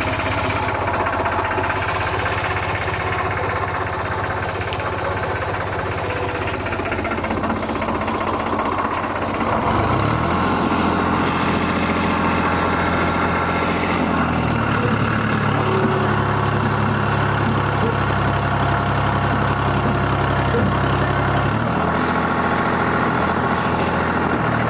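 Tractor diesel engine idling, then revved up about ten seconds in and held at a higher speed, easing back down near the end.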